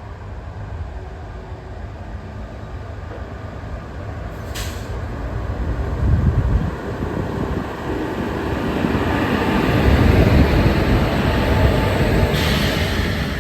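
Express train approaching and passing at speed: a low rumble of wheels on rail growing louder, with a brief click about four and a half seconds in and a rushing hiss building near the end.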